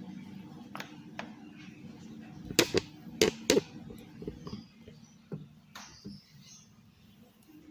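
Sharp plastic clicks and knocks from handling the SPC SMW-10 wireless mouse, scattered and irregular, with a loud cluster of three or four close together about a third of the way in, over a faint steady hum.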